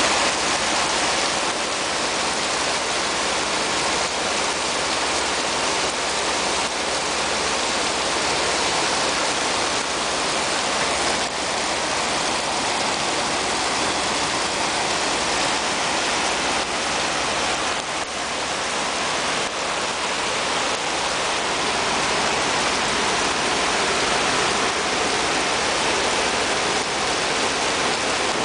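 Heavy downpour: rain falling steadily in a constant, even hiss.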